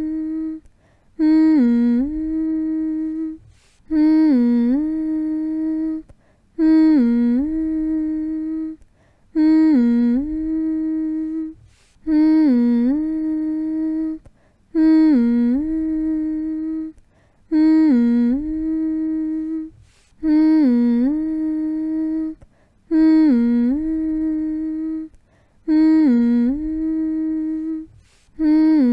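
A voice humming one steady note over and over, each hum opening with a quick dip and rise in pitch and lasting about two seconds, with short gaps between. The same phrase repeats about ten times, evenly spaced, like a loop.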